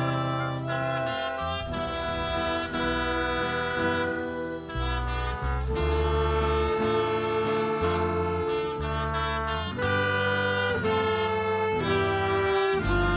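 Instrumental ensemble music: held melody notes over a bass line that changes every second or so.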